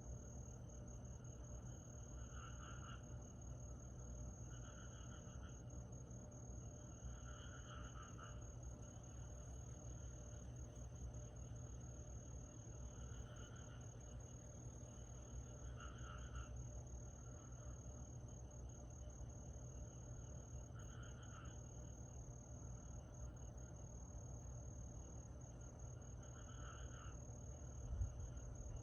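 Summer night insect chorus: a steady, high, unbroken trill, joined by a lower short call that repeats every two to five seconds. A faint low hum runs underneath, and there are a couple of soft knocks near the end.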